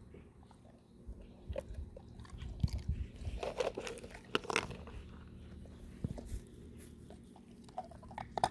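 Dog crunching and chewing ice cubes: a run of irregular crunches, busiest in the first half, then quieter.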